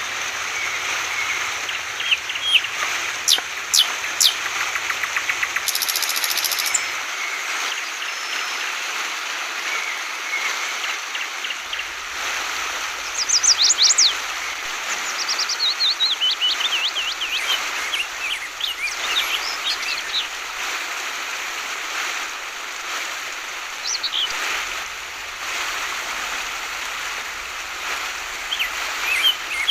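Yellow-vented bulbul (trucukan) calling in short chirps and a quick descending run of notes, over the steady rush of flowing water.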